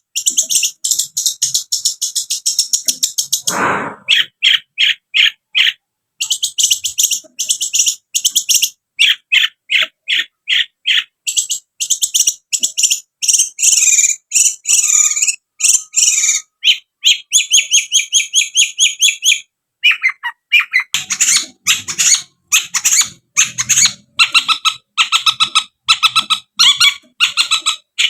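Long-tailed shrike (cendet) singing a fast, chattering song of rapidly repeated high notes in long runs, broken by short pauses. A single harsher, lower note comes about four seconds in.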